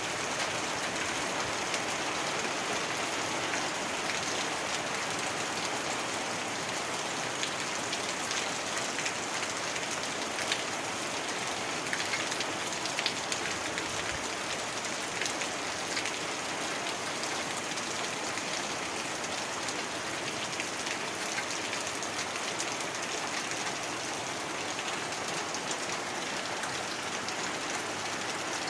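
Heavy rain falling steadily, a dense even hiss with the patter of individual drops.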